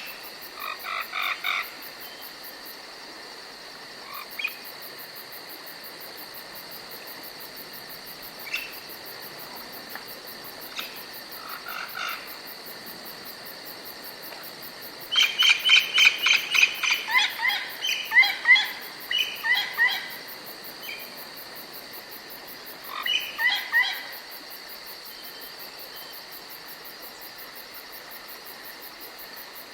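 Forest ambience: insects, crickets among them, chirring steadily, with a very fast high ticking underneath. Small birds call several times over it; the loudest is a run of rapid repeated notes lasting about five seconds, around the middle.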